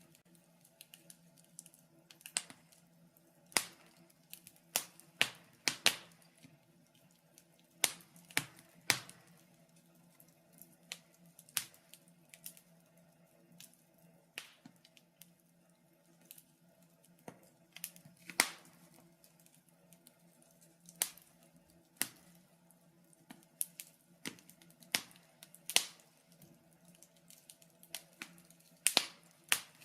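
Wood fire burning in a fireplace, crackling with irregular sharp pops and snaps over a faint steady hiss.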